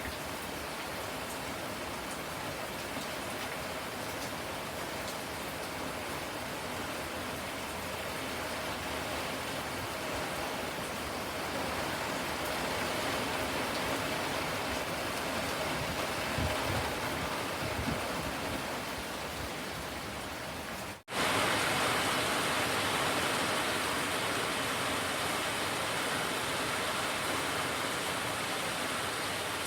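Steady rain falling. About two-thirds of the way through it cuts out for a split second, then carries on louder and hissier.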